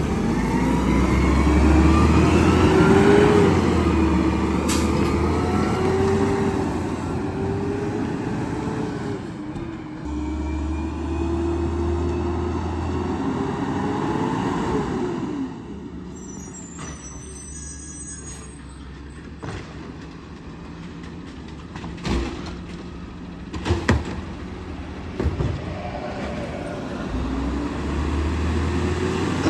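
Garbage truck engine running with a heavy low rumble, its pitch rising and falling as it revs. It drops quieter midway with a brief high squeal, followed by a few sharp clanks.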